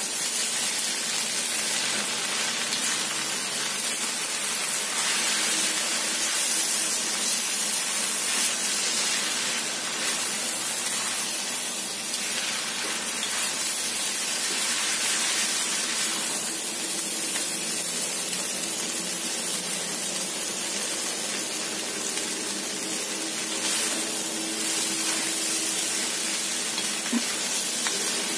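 Fried noodles with cabbage and chicken sizzling steadily in oil in a wok while being stir-fried with a spatula.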